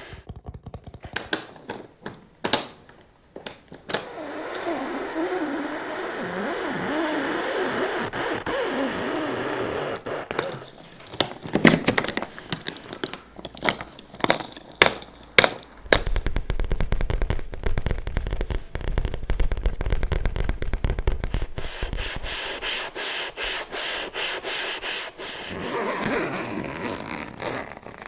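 ASMR tapping and slow scratching on the surfaces of objects with the fingers. It starts with scattered taps, turns to a stretch of smooth, steady scratching, then goes into quick runs of sharp taps, several a second.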